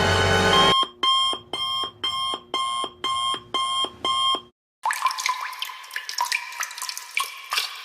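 Electronic alarm beeping: eight short, evenly spaced beeps at about two a second, followed after a brief pause by a rapid run of chiming electronic tones.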